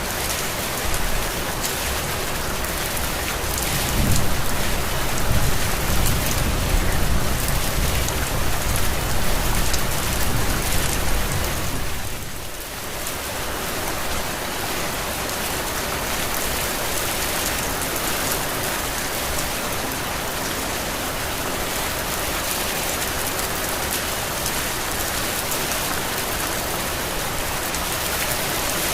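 Heavy, steady rain falling, with a deeper low rumble swelling under it for several seconds in the first half, then the rain alone.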